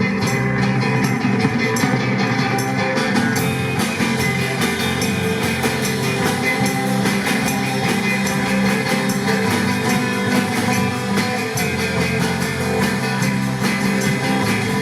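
Live rock band playing an instrumental passage: guitar over a steady drum-kit beat.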